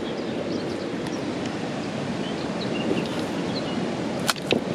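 Steady rushing wind noise on the microphone, with faint bird chirps over it and a few sharp clicks near the end.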